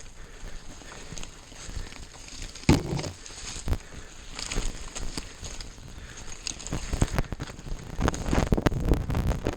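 Knocks, rattles and crackle from a bike riding over a rough trail, with wind on the microphone, growing denser near the end. Under it runs a thin, steady, high buzz, an audio fault introduced by the editing software.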